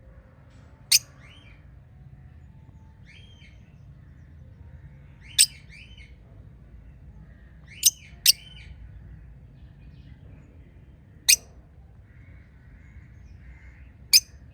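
Pet budgerigars calling: six sharp, very short chirps a few seconds apart, two of them close together about eight seconds in, each trailed by softer warbling chirps, over a steady low background noise.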